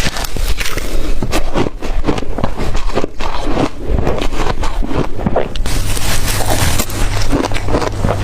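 Blender-crushed ice being bitten and chewed close to the microphone: a dense, irregular run of crisp crunches. A low steady hum comes in about six seconds in.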